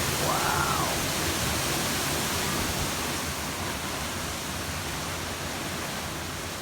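Strong gusting wind from a hurricane's outer bands, a steady rushing noise that eases slightly toward the end.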